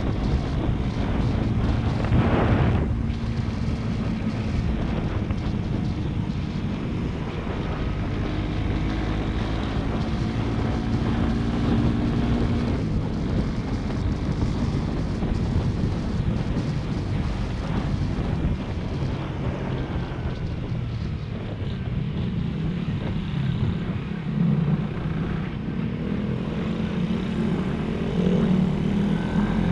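Motorcycle engine running on the move, its pitch shifting up and down as the speed changes, with wind noise on the microphone and a brief louder gust about two to three seconds in.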